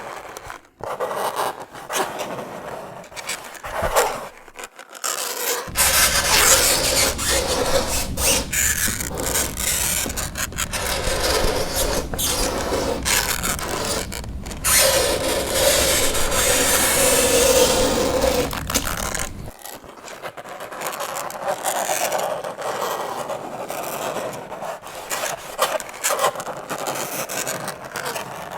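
Fingernails scraping across a chalkboard in repeated strokes. It is louder and fuller from about six seconds in until about nineteen seconds, with a held squeak toward the end of that stretch.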